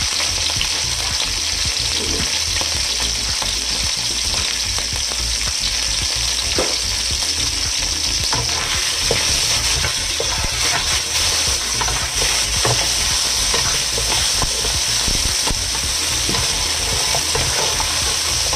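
Vegetarian meat strips and asparagus sizzling steadily in oil in a nonstick wok. From about halfway through, a wooden spatula scrapes and tosses them, adding small clicks over the sizzle.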